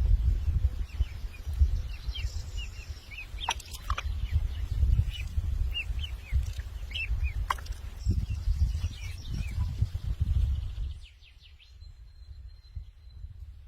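Small birds chirping in quick, repeated short notes over a heavy low rumbling noise. The rumble drops away about eleven seconds in, leaving the chirps and a thin, steady high note.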